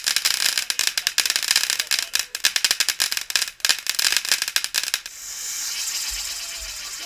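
Firework crackling in a rapid, dense run of sharp cracks, then about five seconds in switching suddenly to a steady hiss.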